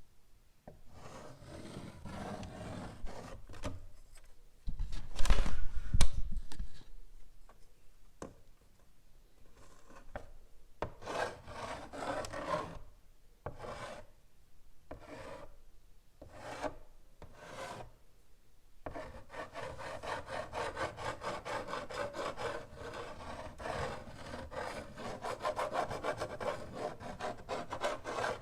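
Chalk scratching on a blackboard in separate strokes, with a louder, deeper bump about five seconds in. Some two-thirds of the way through it turns into a fast, even run of short strokes.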